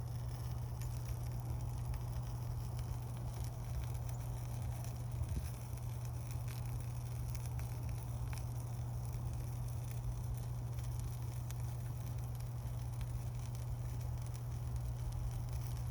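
Wood campfire burning, with many small crackles and pops over a steady low rumble; one slightly louder pop about five seconds in.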